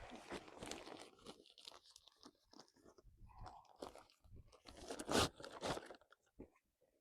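Irregular rustling and crunching of camping gear being handled during tent setup, with a louder crunch about five seconds in.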